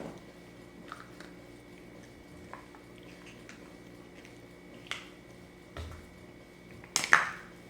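Quiet room with scattered faint small clicks and handling noises, and a brief louder rustling burst near the end.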